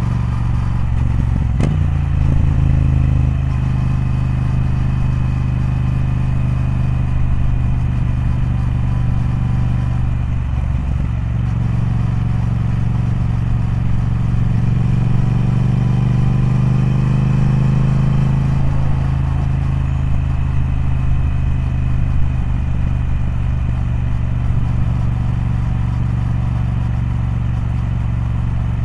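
Triumph Speed Twin parallel-twin motorcycle engine running continuously. There is a sharp click and a drop in pitch about two seconds in. Later the pitch climbs slowly for several seconds as the engine pulls, then falls away again.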